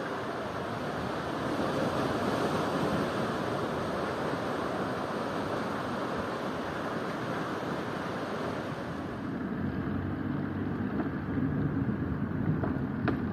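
Ocean surf washing against the shore as a steady hiss. About two-thirds of the way in, the hiss falls away and a low rumble of wind on the microphone takes over.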